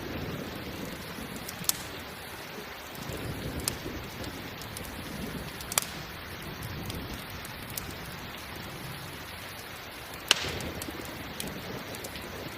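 Steady rain hiss mixed with a crackling campfire: several sharp wood pops, the loudest about ten seconds in, over a low rumble that swells and fades.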